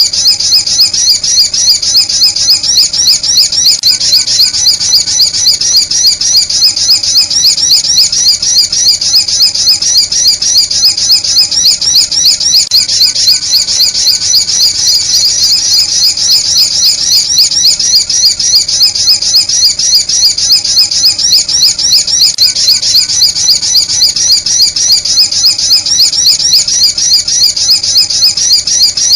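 Sunbird lure call for bird trapping: high-pitched chirps repeated rapidly, several a second, in an unbroken run at an even level.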